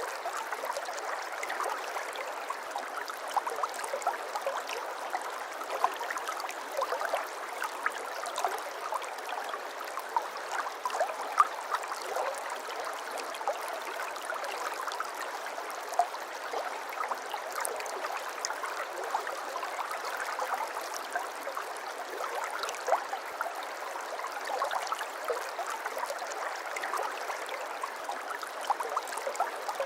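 Flowing water babbling steadily, with many small gurgles and splashes.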